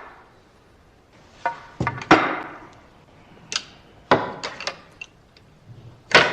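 A series of about ten sharp knocks and clacks at irregular intervals, each with a short ringing tail; the loudest come around two seconds in and again near the end.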